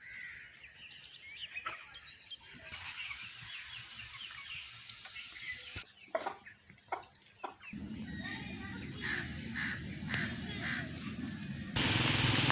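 Outdoor rural ambience of birds chirping over a steady high insect buzz, with a few sharp clicks between about six and seven and a half seconds. The background noise changes abruptly several times, as at cuts between clips.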